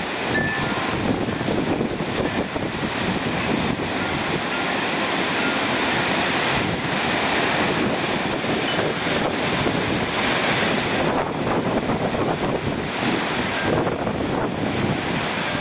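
Strong hurricane wind blowing steadily, rising and falling in gusts, with wind buffeting the microphone.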